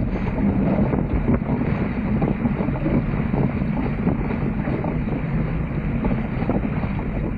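Steady wind buffeting the microphone of a camera aboard a Dart 18 sailing catamaran under way, with a low rumble and water rushing along the hulls.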